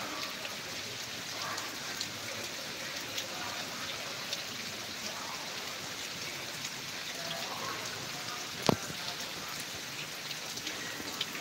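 Steady rain with many small scattered drip ticks, and one sharp knock about three quarters of the way through.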